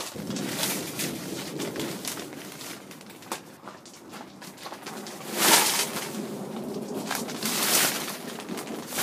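Strong gusty wind buffeting the microphone, swelling into loud gusts a little past halfway and again near the end.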